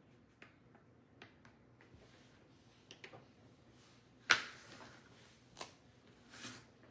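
Scattered light clicks and taps of small craft pieces being handled and set down on a tabletop, with one sharper knock about four seconds in and a short rustle near the end.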